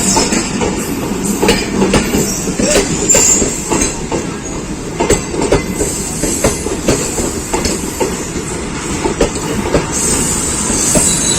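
Karakoram Express passenger coaches rolling past at close range: a steady rumble with many sharp clacks as the wheels cross rail joints, and a high wheel squeal coming in near the end.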